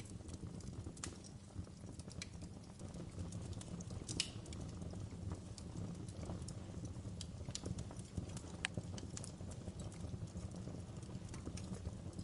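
Fireplace fire crackling: irregular sharp pops and snaps over a low steady rumble, with a louder pop about four seconds in.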